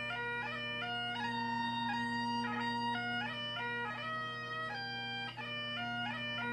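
Bagpipes playing: a steady drone held underneath while the chanter plays a tune of quick-changing notes with rapid grace-note flourishes.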